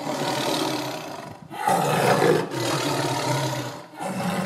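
Big cat roaring: long roars, one after another, with short breaks about a second and a half in and again about four seconds in.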